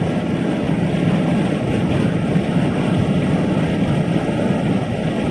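Steady road and engine noise inside a moving car's cabin: an even, low rumble.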